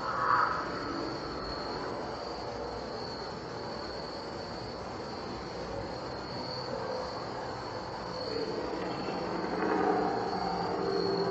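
Night insects, crickets or katydids, trilling steadily at a high pitch. Under them is a distant rumbling, squealing mechanical noise that swells briefly just after the start and again near the end.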